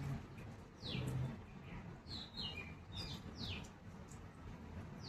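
Pet parrot giving short, sharp chirps that each fall quickly in pitch, a few times with pauses between.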